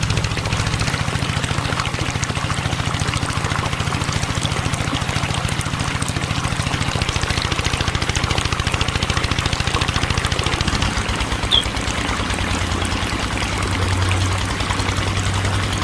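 A small electric motor running steadily, with water pouring and trickling. The motor's low hum changes about eleven seconds in.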